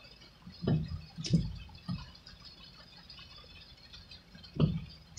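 Heavy rain falling on a car, heard from inside as a faint steady hiss, broken by four dull thumps, the loudest about a second and a half in and near the end.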